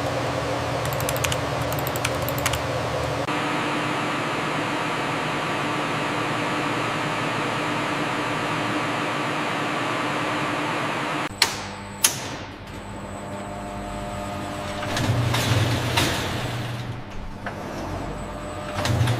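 Steady mechanical hum of fans or machinery. About eleven seconds in the sound changes, with two sharp clicks, and gives way to a quieter background with a low rumble that swells twice.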